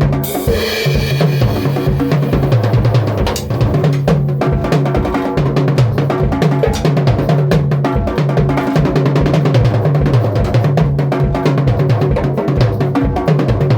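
A drum kit played fast and busily, with bass drum and snare strokes and a cymbal crash just after the start, over a moving low bass line.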